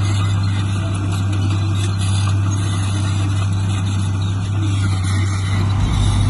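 Heavy diesel construction machine engine running steadily with a deep hum; its low rumble grows stronger near the end.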